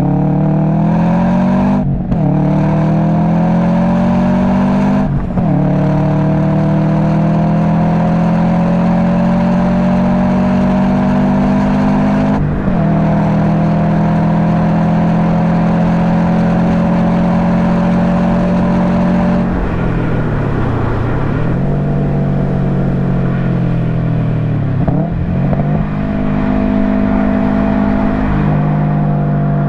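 Subaru WRX STI's turbocharged flat-four through an Invidia Q300 exhaust, driven hard: the engine note climbs in pitch with brief breaks at gear changes, about two, five and twelve seconds in. Past the middle the revs fall away and dip, then the engine pulls again, with another short dip before it settles.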